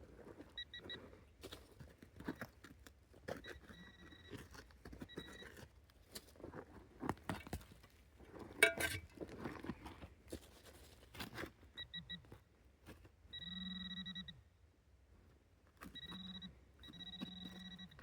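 Metal detector tones beeping on and off while a target is being dug: short electronic beeps, with one longer buzzing tone about two-thirds of the way in and more near the end. Scrapes and knocks of digging in stony ground come between them.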